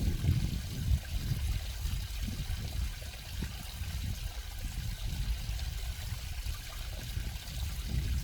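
Water flowing and trickling steadily, with a continuous low rumble under a fainter hiss.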